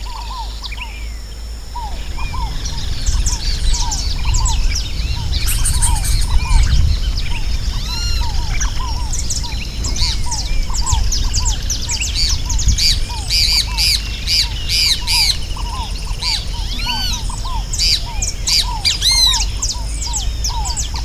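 Dawn-chorus-like mix of many wild birds singing and calling at once, dense overlapping chirps and squawks, with one short call repeating over and over at a lower pitch. A low rumble joins about two seconds in.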